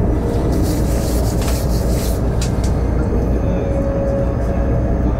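High-speed train running at speed, heard from inside the carriage: a steady low rumble of wheels on rail and air rushing past. A hiss swells briefly in the first couple of seconds.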